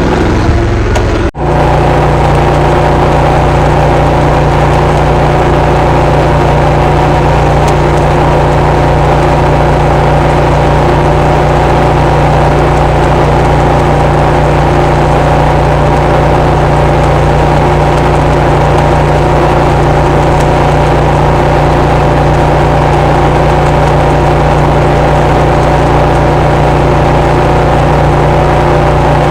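A steady, loud machine drone of several constant tones under an even hiss, unchanging throughout apart from one brief dropout about a second in.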